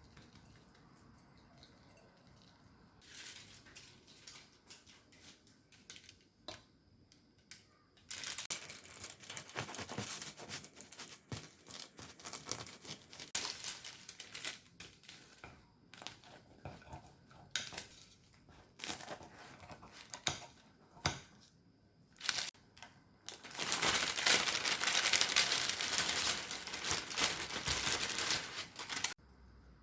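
Crinkling and crackling handling noise in two long spells, dense clusters of small crackles with quieter scattered ticks between.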